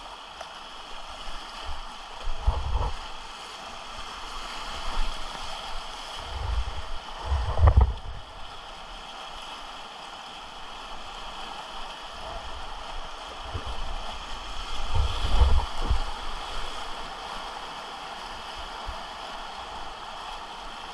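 Whitewater rapids rushing steadily around a kayak, with a few heavy low thumps of water or wind buffeting the camera: one about two and a half seconds in, a bigger one around seven to eight seconds, and another around fifteen seconds.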